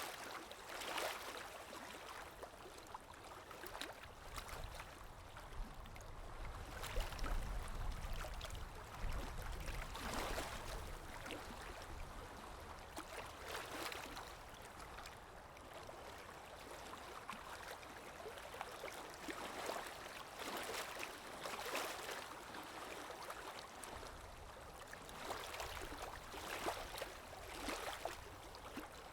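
Ambient recording of water lapping in small waves, with soft swells every few seconds over a low wind rumble that grows stronger for a few seconds about a quarter of the way in.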